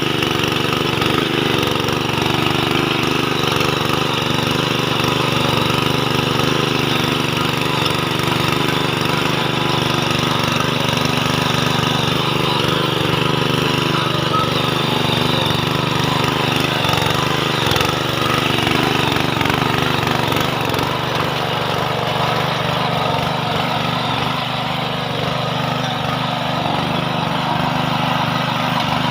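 Small power tiller's engine running steadily while the tiller works the soil.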